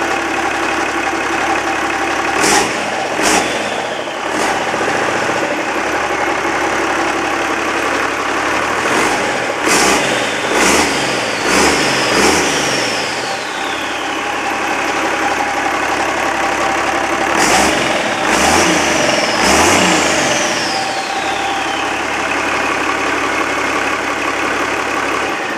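Perkins 1006.6T six-cylinder turbo diesel engine idling and revved in three bursts, about two seconds in, around ten seconds and around eighteen seconds, settling back to idle each time. After the longer revs the turbocharger's whistle falls away as it spools down.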